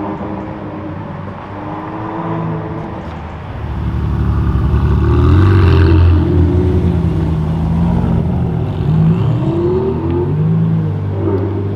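Ferrari Monza SP1's 6.5-litre V12 running low and steady, then louder from about four seconds in, revving up and down several times.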